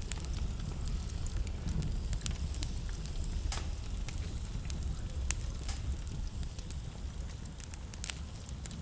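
Wood fire in a fireplace burning, a low steady rumble of flame with irregular sharp crackles and pops, a few of them louder.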